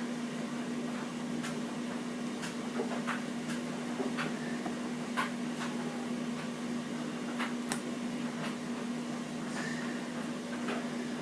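A straw tapping and scraping in a small container while stirring nail varnish: faint, irregular clicks about once a second, over a steady low electrical hum.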